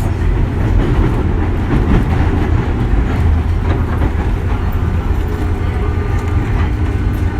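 Running sound heard from inside a JR 201 series electric train: a steady rumble of wheels on rail, with faint steady tones coming in near the end.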